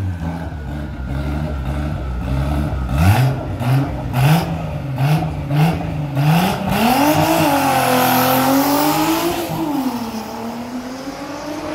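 Drag-racing car engines at the start line, held low and then revved repeatedly with sharp cracks at each peak. About seven seconds in they launch and accelerate hard, the pitch climbing and dropping through the gears before easing off near the end.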